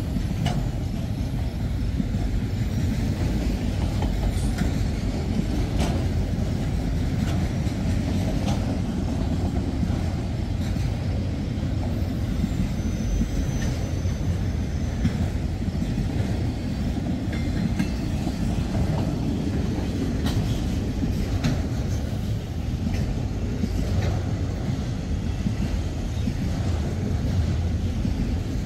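Freight train of autorack cars rolling past steadily, a continuous low rumble of wheels on rail with scattered sharp clicks and clanks from the wheels and cars.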